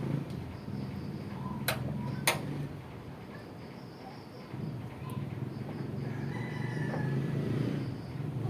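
A rooster crows once, starting about six seconds in and lasting a second and a half, over a steady low hum. Two sharp clicks come earlier, about two seconds in.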